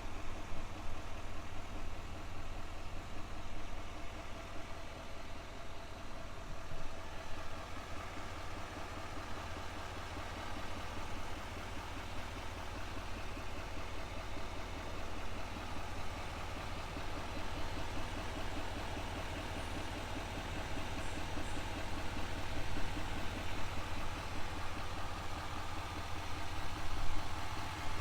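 The 6.6-liter turbodiesel V8 of a GMC Sierra 2500HD Denali idling steadily.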